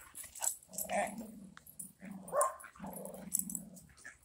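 Boxer dog growling in three or four short, rough bouts while play-fighting over a toy.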